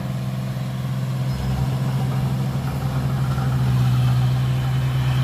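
Heavy diesel engine of a dump truck or bulldozer running steadily at a low, even pitch, growing louder over the last couple of seconds.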